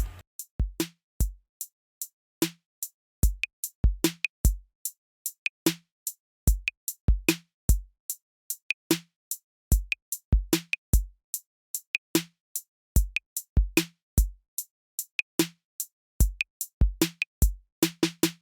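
Background music: a sparse drum-machine beat of deep kick-drum hits and sharper snare-like hits, with short silences between them.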